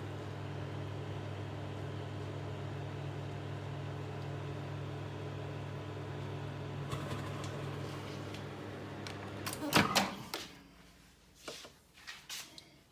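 Miele M 8260-2 built-in microwave oven running with a steady hum that stops about ten seconds in. It is followed at once by a loud clatter of clicks and a few lighter clicks near the end.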